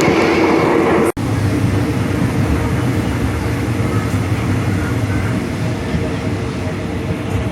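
Diesel passenger train running: a steady rumble with a low, even hum. The sound drops out for an instant about a second in, where the recording is cut.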